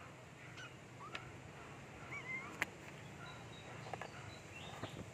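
Faint bird calls: a few short chirps and a wavy whistle, with one sharp click about two and a half seconds in.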